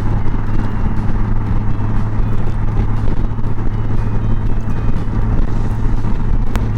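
2023 Honda Gold Wing's flat-six engine cruising at highway speed: a steady low drone under constant wind and road noise. Two sharp ticks near the end.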